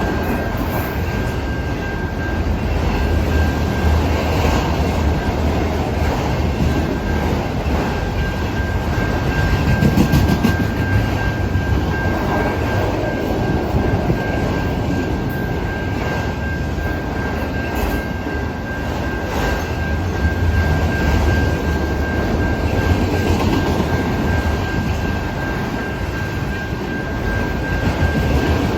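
Norfolk Southern autorack freight train rolling past, its cars rumbling steadily on the rails, with a thin steady high tone running throughout.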